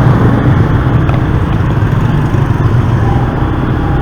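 Steady motorbike engine and street-traffic noise heard while riding through city traffic, dense and low.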